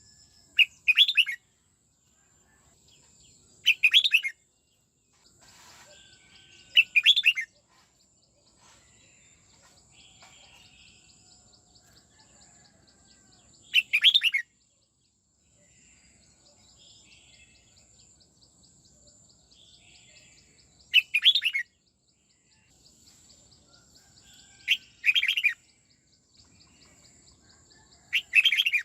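Red-whiskered bulbul singing: seven short, loud warbled phrases spaced a few seconds apart. A faint, steady high-pitched buzz with fast ticking runs underneath.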